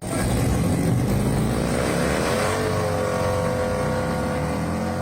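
An engine starts abruptly, loud, and revs up over about a second before holding at a steady high speed.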